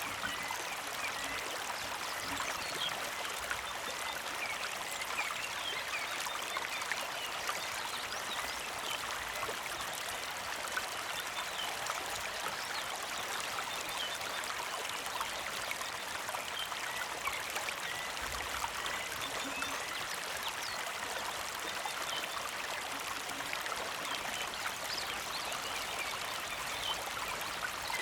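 Small creek flowing and trickling steadily over stones, an even, unbroken rush of water.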